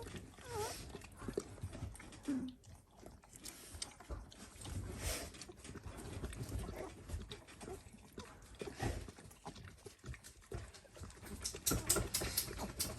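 Dalmatian puppies about two weeks old giving a few brief, high squeaks and grunts, over the constant soft rustling and shuffling of dogs moving about in their bedding.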